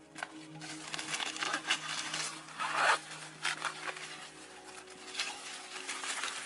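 Irregular scraping and rubbing noises in short strokes, loudest just under three seconds in, over a faint steady hum.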